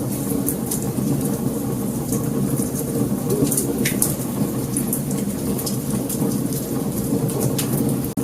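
Wood fire burning: a steady low rumble of flames with frequent small sharp crackles and pops from the burning wood.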